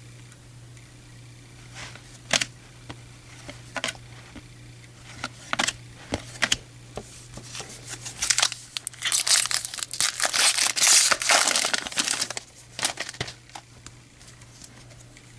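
Wrapper of a baseball card pack crinkling and tearing open, loudest a little past the middle, with scattered sharp clicks of cards being handled before it. A faint steady hum runs underneath.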